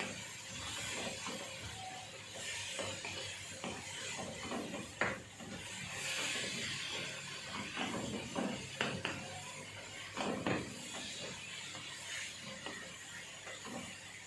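Knife cutting bell pepper on a wooden cutting board: irregular knocks and scraping, with a few sharper knocks about 5, 9 and 10 seconds in.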